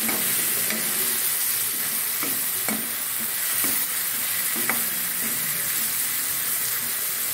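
Onion, tomato and spice masala sizzling in hot oil in a metal kadhai while a metal ladle stirs it, scraping and knocking against the pan every second or so. The masala is being roasted (bhuna) until the oil separates.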